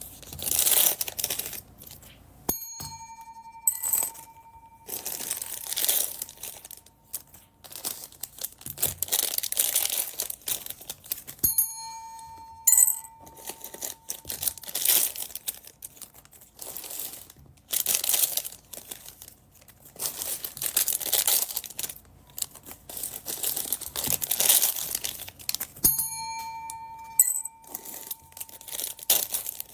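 Plastic packaging bags crinkling and being torn open, over and over. A bell-like ding rings out three times and fades away: once near the start, once about twelve seconds in, and once near the end.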